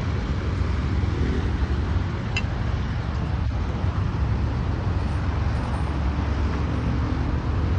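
A 2007 Autocar WX64 hydro-excavation vacuum truck running with a steady low rumble, with one brief high chirp about two and a half seconds in.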